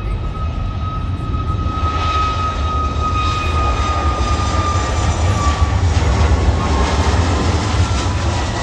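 Jet airliner passing: engine noise growing louder, with a high whine that slides slowly down in pitch as it goes by.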